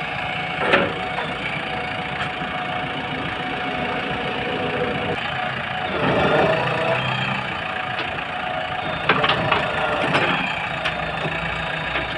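Diesel engine of a JCB backhoe loader running steadily, with a sharp knock about a second in, a louder swell about halfway, and a few more knocks near the end.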